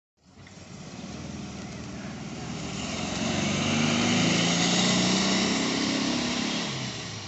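A car pulling away and accelerating past, engine note rising, loudest about four to six seconds in and then fading.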